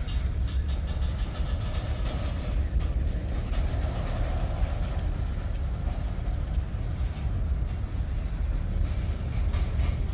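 Freight train covered hopper cars rolling past at a grade crossing: a steady low rumble of steel wheels on rail, with many sharp clicks throughout.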